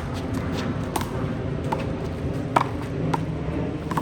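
A small rubber handball smacking off players' hands, the wall and the court in a rally: a string of sharp slaps about every half second to a second, the loudest about two and a half seconds in.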